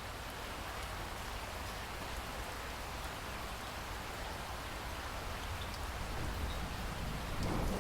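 Steady rain falling, an even hiss of drops that grows gradually louder, with a low rumble swelling near the end.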